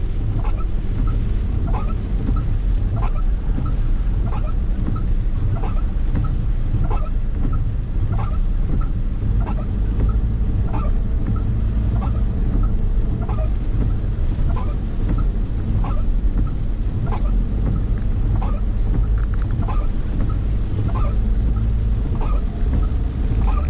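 A vehicle driving through rain: steady low engine and road rumble with rain noise over it. A short, faint sound repeats about once a second throughout.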